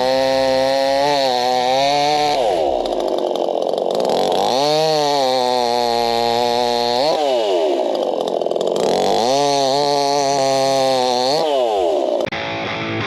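Chainsaw running at high revs, its throttle let off and opened up again, so the pitch falls and climbs back twice and falls a third time. It cuts off abruptly near the end, giving way to music.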